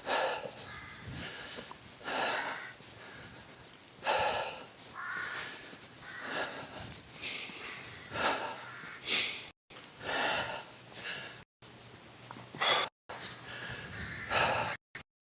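A person breathing hard, out of breath from climbing a steep hill, with loud breaths every one to two seconds.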